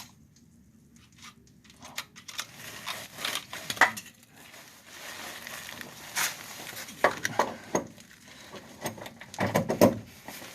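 Irregular metallic clinks, knocks and scrapes of hand tools and parts against the car's underside, with a cluster of rattling knocks near the end.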